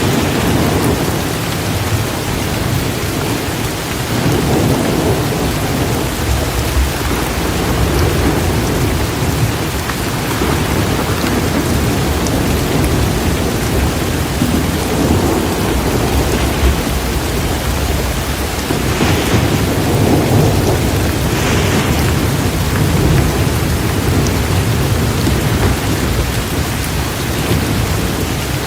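Torrential rain pouring steadily, with rolling thunder that rumbles and swells several times and two sharper thunder cracks about two-thirds of the way in.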